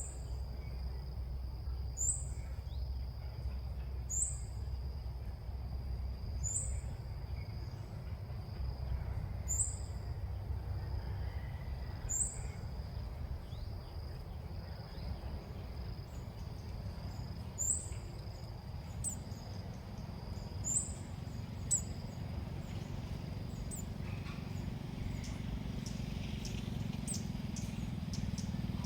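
Short high chirping calls of a female ốc mít bird, repeated every two to three seconds with a pause in the middle. Under them run a steady thin high drone and a low rumble.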